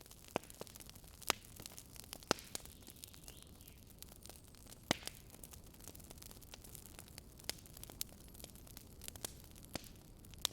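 Campfire crackling: irregular sharp pops and snaps from burning wood over a soft steady hiss, with a few louder snaps.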